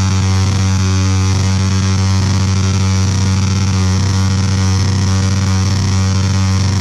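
Motorcycle engine revved hard and held at steady high revs while the rear tyre spins on concrete. The sound is very loud and unchanging, with a dense, harsh noise over the engine note.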